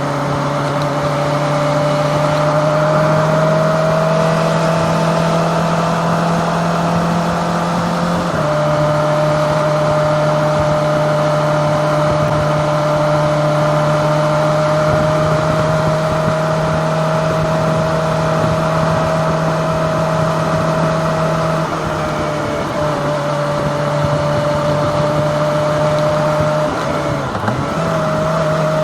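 Kawasaki ZX-25R's 250cc inline-four engine running at steady road speed, its pitch creeping up over the first several seconds, with a steady rush of wind and road noise. The engine note changes briefly about eight seconds in, again about twenty-two seconds in, and near the end.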